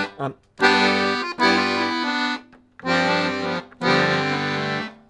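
Accordion playing a short bluesy phrase of three held chords over bass notes, with brief breaks between them.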